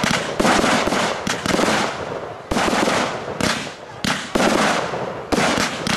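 Fireworks display: a rapid series of aerial shell bursts, about ten sharp reports in six seconds, each one fading quickly before the next.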